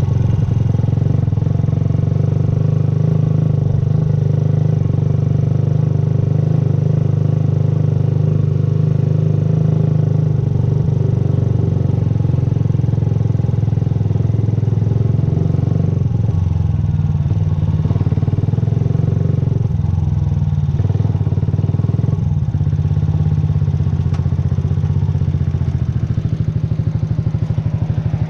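Yamaha YZF-R125's 125 cc single-cylinder four-stroke engine running steadily, its note becoming more uneven about two-thirds of the way through.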